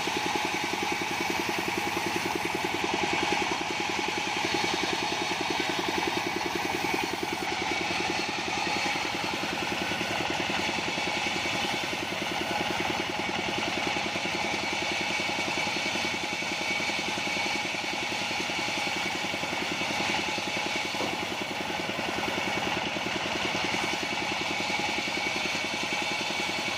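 The engine of a portable bandsaw sawmill running steadily, with a steady high-pitched tone above it.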